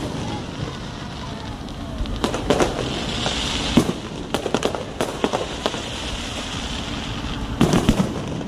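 Aerial fireworks bursting: an irregular run of sharp bangs, with a quick cluster of them near the end, over a steady crackling hiss.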